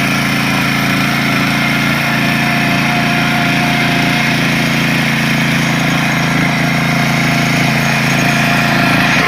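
Small tractor's engine running steadily at an even speed.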